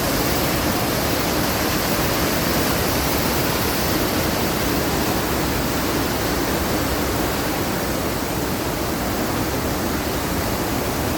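Rushing, churning water of a theme-park river rapids attraction, a steady even rush.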